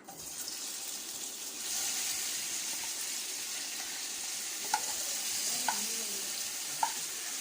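Marinated chicken pieces sizzling in hot coconut oil in a pan just after being added, the sizzle swelling about two seconds in and then holding steady. Three short taps sound in the second half.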